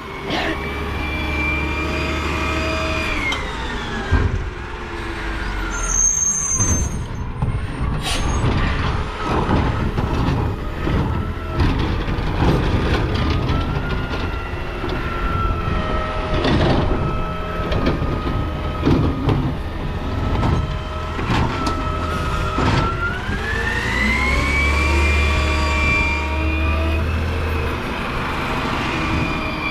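Garbage truck engine revved high to run the hydraulics. It drops back about four seconds in and rises again a few seconds before the end. In between comes a long run of knocks and clattering as trash is handled.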